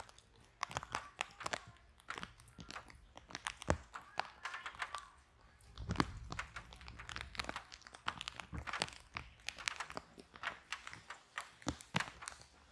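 Wood fire in a fireplace crackling, with irregular sharp pops and snaps and a soft low rumble of flame that swells about six seconds in.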